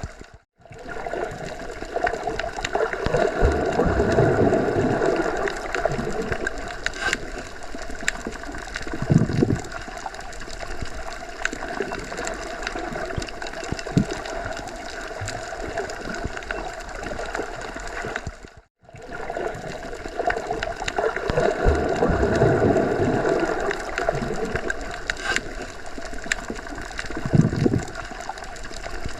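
Underwater ambience: muffled rushing and gurgling water with slow swells and scattered small clicks, broken by a brief gap near the start and again about two-thirds of the way through, where the same passage starts over.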